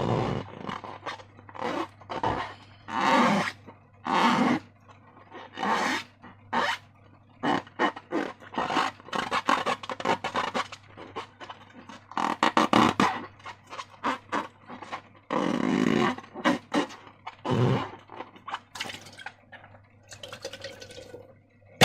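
Slime being squeezed and squished by hand, making irregular wet squelches and crackly pops, some long, some short and rapid, over a faint steady low hum.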